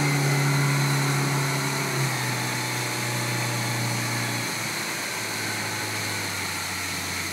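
Motorboat engine running under way, its hum dropping in pitch in two steps, about two seconds in and again near the middle, as the engine slows, over a steady hiss.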